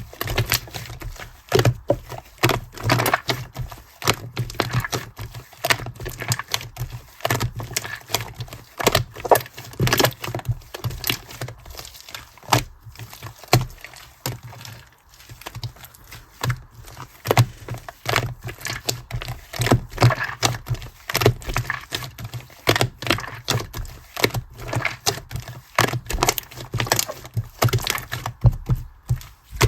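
Clear teal slime being kneaded and pressed by hand while shaving foam is mixed in, giving an irregular, dense run of crackles, pops and squelches.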